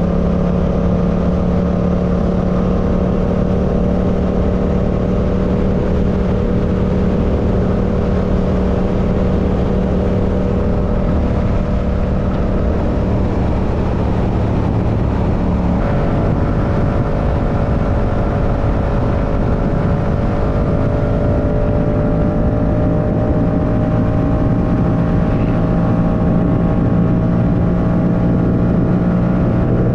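Yamaha R7's 689 cc parallel-twin engine running at a steady road speed. About halfway through, the engine note steps up abruptly, then rises slowly as the bike gathers speed.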